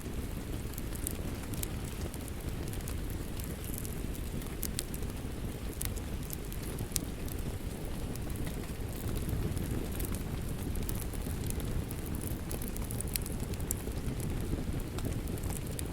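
Wood fire crackling in a fireplace: a steady low rush of burning with scattered sharp pops and snaps.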